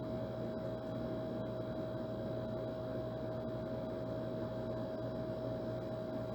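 Old air conditioner running steadily: an even whir of fan air with a constant hum and a steady whine.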